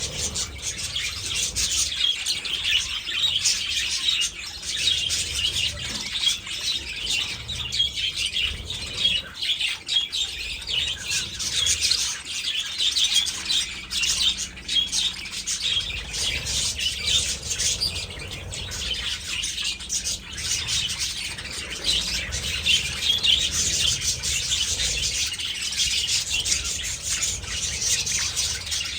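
A flock of budgerigars chattering: many rapid, overlapping chirps running on without a break.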